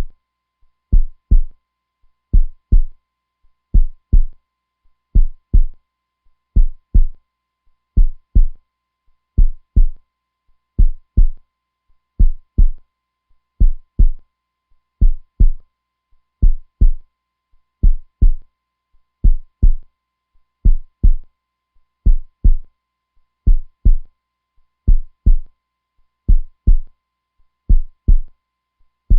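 Heartbeat sound: a steady, slow double thump (lub-dub), deep and low, repeating about every second and a half.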